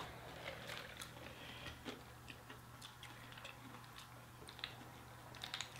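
Faint chewing of chicken wings, with scattered small, sharp mouth clicks and smacks.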